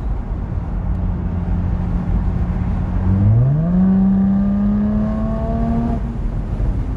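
Jaguar F-Type P380's 3.0-litre supercharged V6 engine while driving, holding a steady note and then, about three seconds in, revving up quickly as the car accelerates. The higher note climbs slowly until it drops away about six seconds in.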